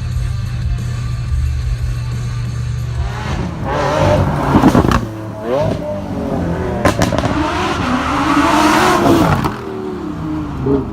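Supercar engine running low and steady, then revved hard twice, first about four seconds in and again for about three seconds, its pitch rising and falling as the car pulls away.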